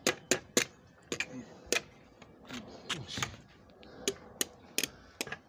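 A string of sharp metallic taps and clicks from hand tools working on engine parts during a Toyota 2KD diesel rebuild: quick runs of three or four taps, with short gaps between them.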